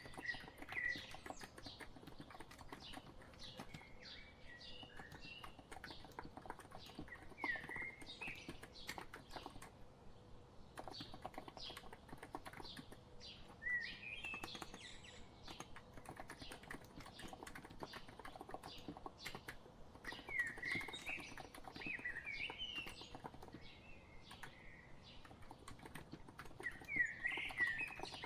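Typing on a COX Empress electro-capacitive keyboard: a steady run of soft key clicks that pauses briefly about ten seconds in. Birdsong runs under it, with short chirping phrases every few seconds.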